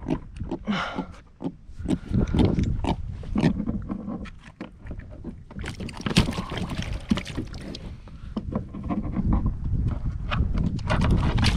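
Knocks, clicks and clatter of a freshly caught jack being handled with a fish grip aboard a plastic kayak, over a low rumble.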